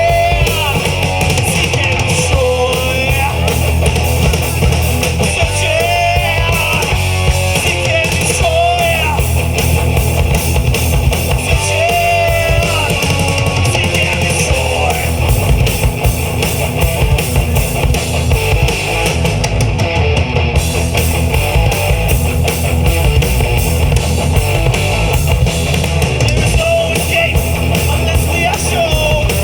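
Rock band playing live: electric guitars, bass guitar and drum kit with a sung vocal line that comes in and out.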